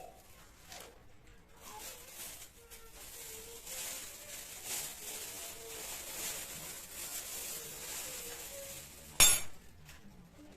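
Kitchen handling noises, rustling and light knocks, then one sharp glass clink about nine seconds in.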